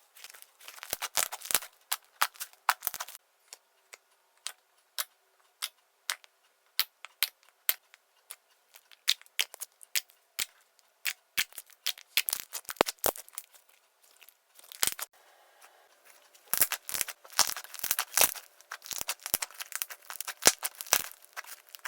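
Clay slime being kneaded and squished by hand, giving irregular sharp crackling clicks and pops that come in dense clusters with sparser stretches between.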